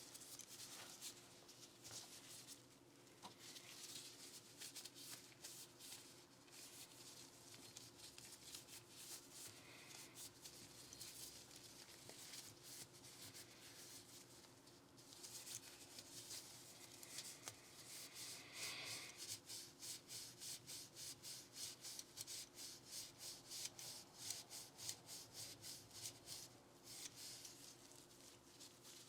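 Quiet scrubbing and rubbing on Glock 19 pistol parts during cleaning. The scratching strokes come irregularly at first, then settle into a run of quick, even strokes, a few a second, in the second half. A faint steady hum sits underneath.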